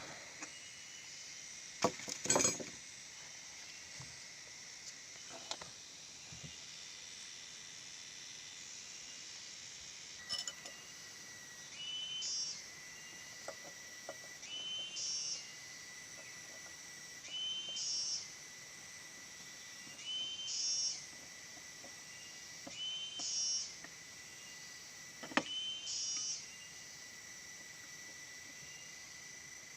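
Steady insect hum, with a repeated call of about a second, about every two and a half seconds, and a few sharp clicks.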